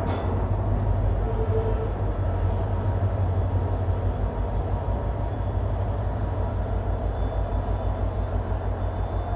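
Passenger train running slowly through a station, heard from a coach doorway: a steady low rumble of the moving coach, with a sharp click at the very start and a regular pulsing that becomes clearer in the second half.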